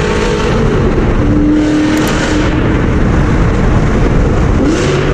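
C7 Corvette's V8 running under load while driving through a highway tunnel, with heavy road noise and a brief rise in revs near the end.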